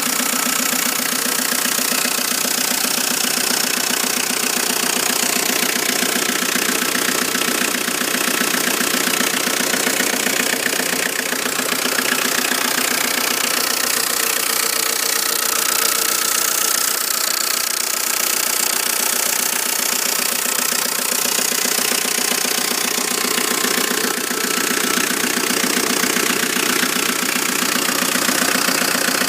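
Volvo S40's 1.9 F8Q diesel engine running with a knock from the engine, a steady rapid rapping over the engine note.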